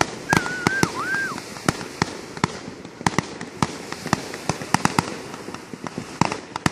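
Consumer fireworks going off, with an irregular string of sharp pops and bangs, several a second. A short warbling whistle sounds in the first second and a half.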